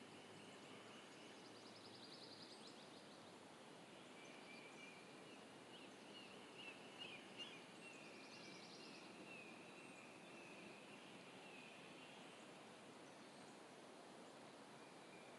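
Near silence: quiet lakeside ambience with faint distant bird calls, a little louder around the middle.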